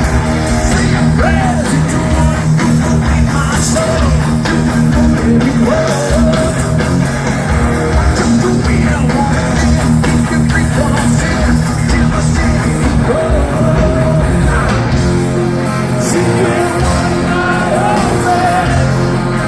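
Loud heavy rock music with electric guitar, bass and drums, and a voice singing over it.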